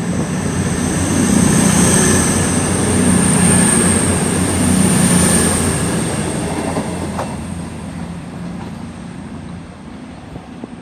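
CrossCountry Voyager diesel multiple unit (Class 220 and 221 coupled) pulling away, its underfloor diesel engines rumbling with a thin high steady whine above. The sound fades steadily as the train moves off.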